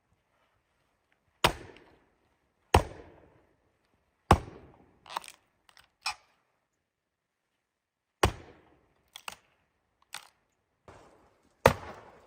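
Wood being chopped: a series of sharp, loud strikes at irregular intervals, each with a short ringing tail, including two quick ones close together.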